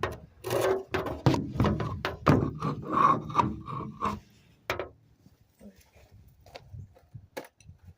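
Scraping, rubbing and clicking as small metal parts and tools are handled, dense for about four seconds, then a few separate clicks.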